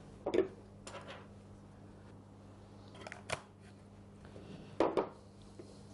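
Several short clicks and clacks of the Bosch GSH 5 demolition hammer's handle parts being picked up and handled. The loudest come about five seconds in.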